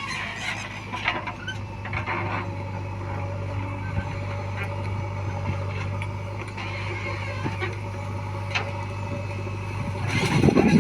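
Heavy diesel engine running steadily with a low hum, with a few short knocks and a louder surge of noise near the end.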